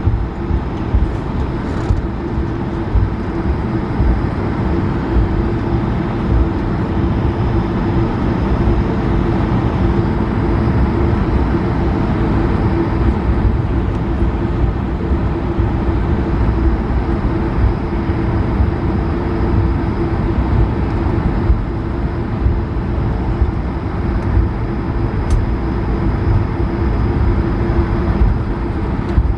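Steady cabin noise of an Airbus A220-300 with its Pratt & Whitney PW1500G turbofans running: an even drone with a constant hum and a low rumble underneath, heard from inside the cabin.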